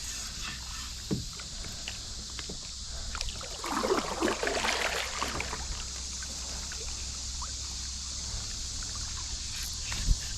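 Water splashing beside a kayak: one short burst about four seconds in, over a steady hiss.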